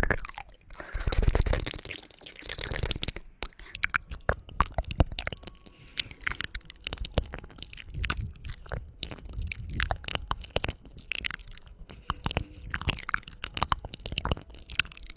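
Close-miked ASMR mouth sounds: rapid, irregular tongue clicks and wet mouth noises. These follow a brief soft rushing swell in the first few seconds.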